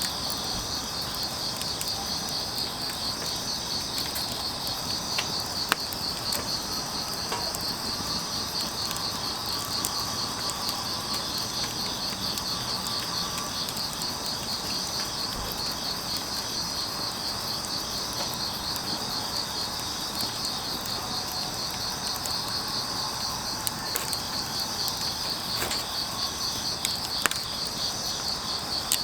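Grass insects chirping in a steady, fast-pulsing chorus, with a few sharp crackles from burning firewood scattered through it.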